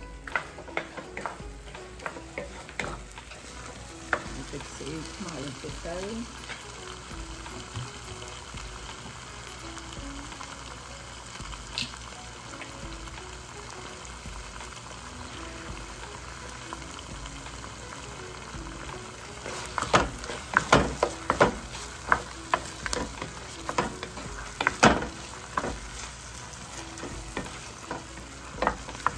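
Food sizzling as it is stir-fried in a pan. A utensil scrapes and knocks against the pan a few times near the start, and in a burst of sharp clatters about two-thirds of the way through.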